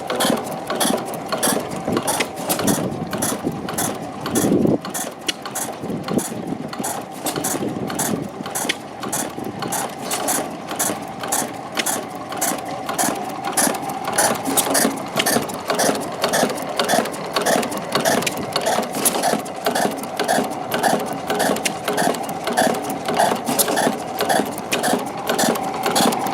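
Early-20th-century Benz & Cie inverted stationary engine running steadily, its mechanism clicking in an even, rapid rhythm over a steady drone.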